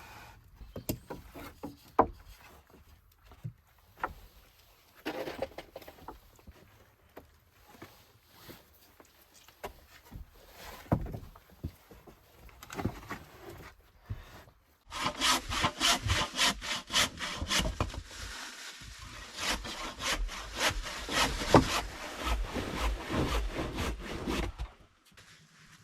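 Scattered knocks of wood being handled. Then, from about fifteen seconds in, roughly ten seconds of quick, rhythmic rasping strokes across wood, which stop suddenly near the end.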